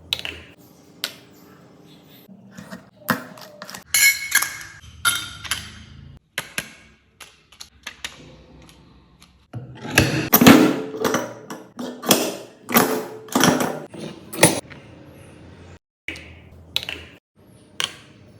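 A run of sharp clicks, taps and knocks from small hard craft parts and a magnet-making press being handled. A denser cluster of louder thunks comes about ten seconds in.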